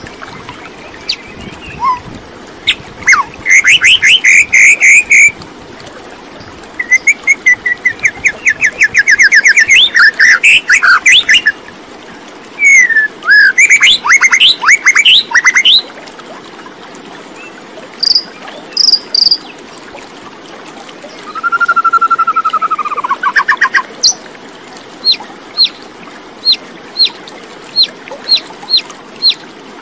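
Birds chirping and singing: varied phrases of fast trills and chirps, a drawn-out falling whistle about two-thirds of the way through, then a run of short high chirps, about two a second, near the end.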